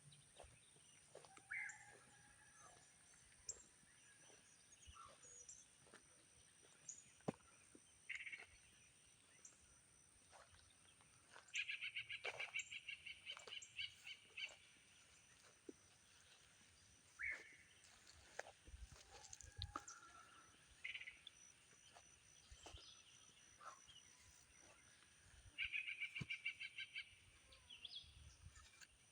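Parrot-like bird calls: scattered short call notes. About twelve seconds in, and again near the end, comes a fast rattling series of repeated notes lasting two to three seconds.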